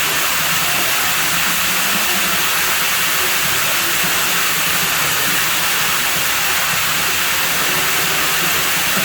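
Water running and pouring steadily at a pool, an even, unbroken rushing hiss.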